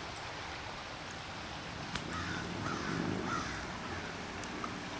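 A bird calling about four times in quick succession, over the steady rush of a swollen creek.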